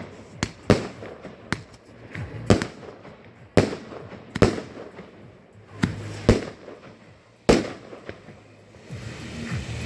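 Fireworks going off: a string of sharp bangs at uneven intervals, about nine of them, each with a short echo. The bangs stop about three-quarters of the way through, leaving a low hum.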